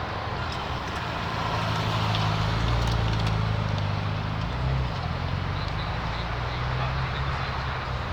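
Car engine running with a low, steady note that swells about two to three seconds in and drops back a little before five seconds, over a noisy background.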